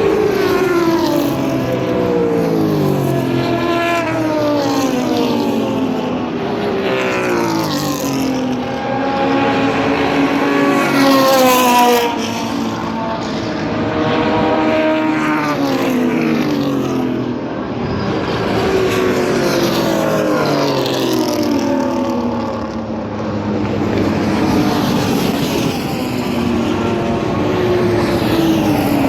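Several racing cars' engines running hard on a track, their notes repeatedly rising and falling as they accelerate, change gear and go by, with more than one car heard at once.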